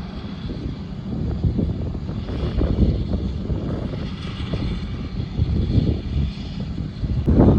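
Air Tractor firefighting air tanker's propeller engine running as a steady drone. Wind buffets the microphone loudly near the end.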